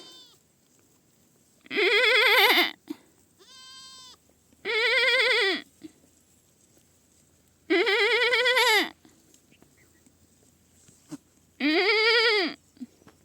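A young goat (kid) bleating four times, each call loud, wavering and about a second long, spaced roughly three seconds apart. A fainter, higher-pitched bleat comes between the first two.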